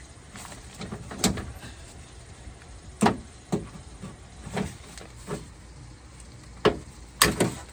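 Irregular knocks and clunks of a car door's latch and lock actuator assembly being worked out of the door, knocking against the inside of the door, about seven in all, the loudest about three seconds in and near the end.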